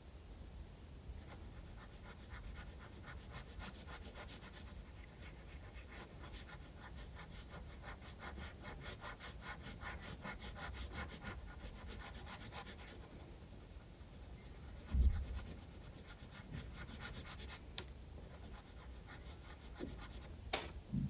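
Graphite pencil scratching on sketchbook paper in rapid back-and-forth shading strokes, several a second. The strokes pause for a few seconds, a dull low thump comes about fifteen seconds in, and then the strokes resume.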